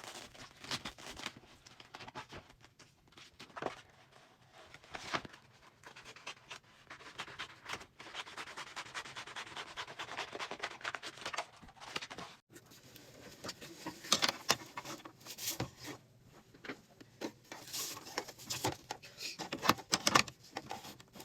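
Hands handling parts of an embroidery sewing machine: rubbing and scraping with light clicks and knocks, and a steadier rustle for a few seconds in the middle.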